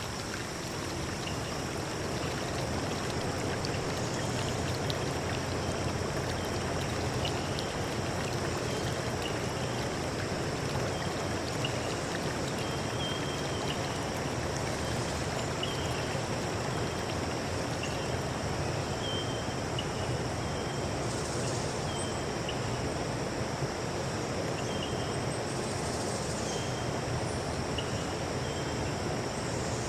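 Forest stream running steadily, with short high chirps repeating every second or so over the rush of the water.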